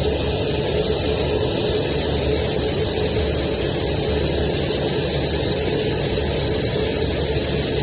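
Aircraft turbine engines running steadily: a constant rushing noise with a steady high whine over it.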